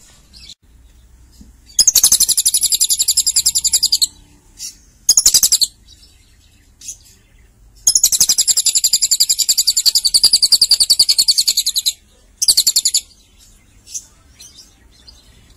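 Lovebird singing: long, rapid, high-pitched trills, one of about two seconds and one of about four, with short chirps between them.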